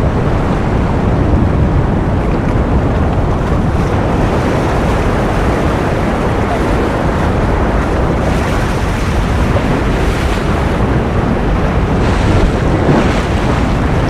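Ocean surf as a steady, continuous wash of noise, swelling faintly now and then.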